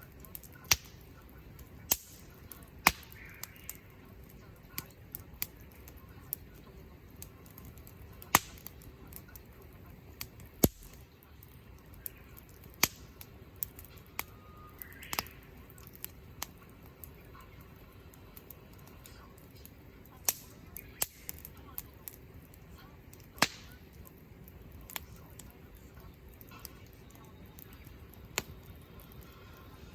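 Firewood burning in a mesh fire pit, crackling with irregular sharp pops, a few of them much louder than the rest, over a faint steady hiss.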